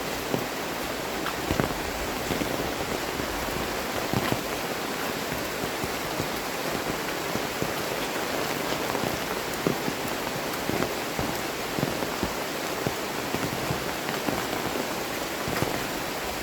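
Heavy tropical rain pouring steadily, with frequent sharp drop impacts close by.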